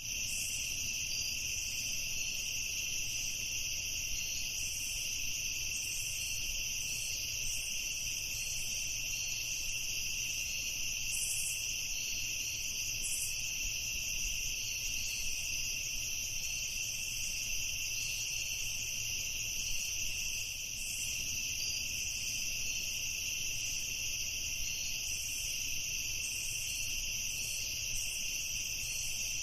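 A steady chorus of crickets chirping at night, a high shrill trill that holds unbroken throughout.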